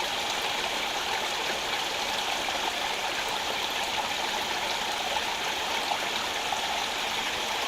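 Rocky rainforest stream rushing steadily over stones, a continuous even wash of running water.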